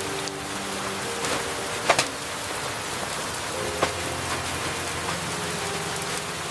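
Steady rain falling, with now and then a heavier drop striking close by, the sharpest about two seconds in.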